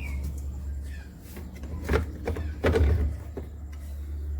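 Knocks and clatter from a washing machine being handled, loudest in two bursts about two and three seconds in, over a steady low hum.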